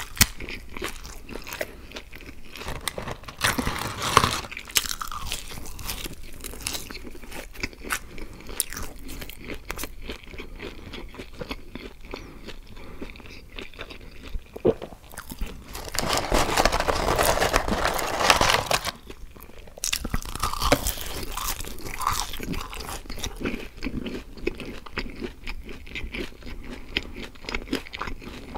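Close-miked chewing of French fries: steady small crunches and wet mouth sounds. A louder, noisier stretch of about three seconds comes a little past the middle.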